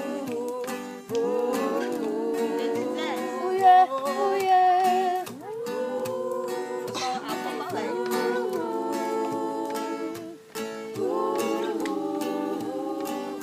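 Singing voices with a strummed acoustic guitar, a worship song with long held notes and short pauses between phrases.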